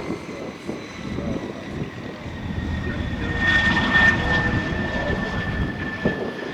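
Propeller airplane's engine passing close by on a landing approach, with a steady high whine. The sound swells to its loudest about four seconds in, then eases off.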